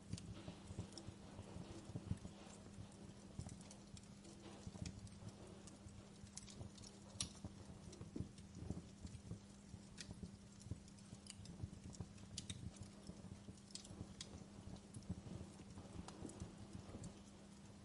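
Wood fire crackling: irregular small pops and snaps, a few sharper than the rest, over a steady low hum.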